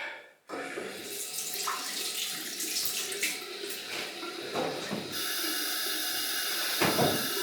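Tap water running into a sink, with some splashing and a few small knocks; the flow turns steadier about five seconds in.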